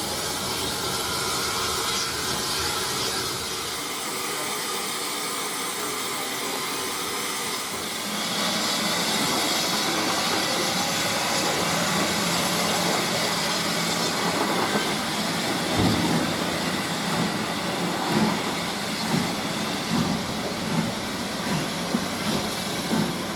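Steam locomotive with a train, steam hissing steadily over the running noise of the train; the hiss gets louder about eight seconds in, and there are a few irregular low knocks later on.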